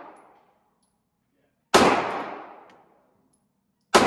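Gunshots at an indoor shooting range: two sharp shots about two seconds apart, one in the middle and one near the end, each ringing off in the range's echo for about a second.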